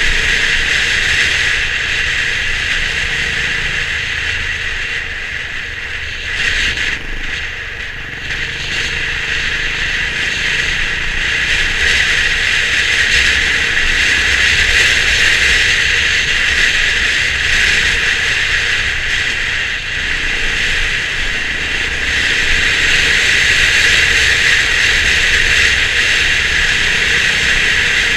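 Honda CB350 RS motorcycle on the move: steady engine and riding noise with a mechanical rattle, easing slightly around six to eight seconds in.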